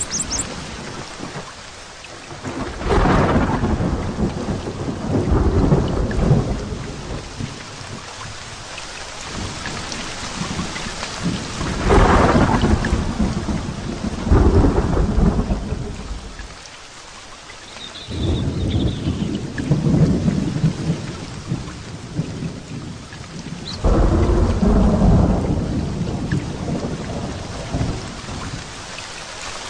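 Heavy rain falling steadily through a thunderstorm, with about six long rolls of thunder that swell and fade, the loudest near the middle and again near the end.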